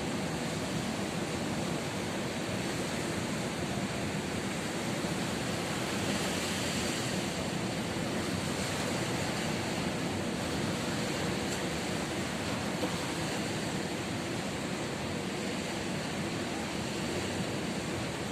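Ocean surf rushing steadily on the shore, with a wave swelling a little louder about six seconds in.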